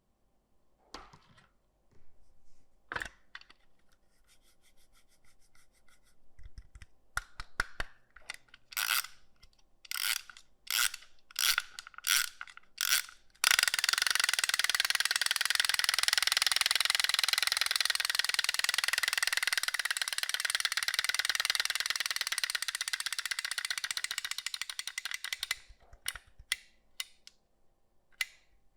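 Sharp plastic clicks and knocks, then about halfway in a small geared mechanism whirs with a fast ratcheting tick for about twelve seconds before fading into a few more clicks.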